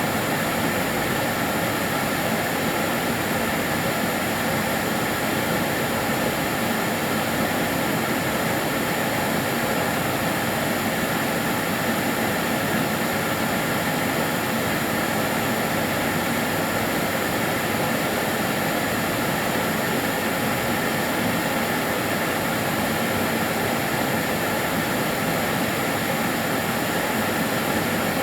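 Kärcher DS 6 Premium water-filter vacuum cleaner running steadily: an even rushing hiss of drawn air with a faint steady whine, unchanging in level throughout.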